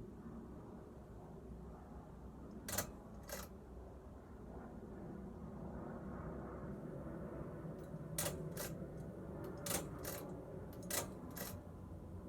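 Hunter Berkeley ceiling fan's pull-chain speed switch clicking over the steady hum of the running fan motor. The clicks come in pairs, once about three seconds in and then three times in quick succession later on, as the switch is stepped through its speeds to find low.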